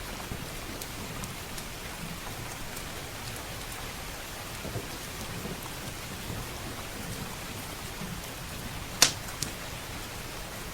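Steady rain hissing, with a wood fire crackling in small scattered pops and a low thunder rumble underneath. About nine seconds in, one loud sharp pop from the fire is followed shortly by a smaller one.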